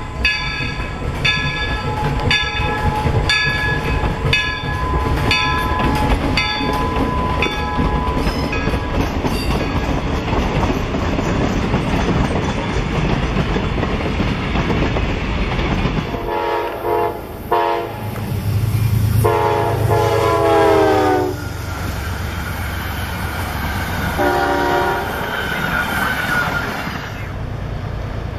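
A steam locomotive's bell rings steadily, a little under twice a second, over the train's running noise, and dies away about a third of the way in. Later a train's air horn sounds three blasts: two long ones, the second sagging in pitch at its end, then a short one, over a low rumble.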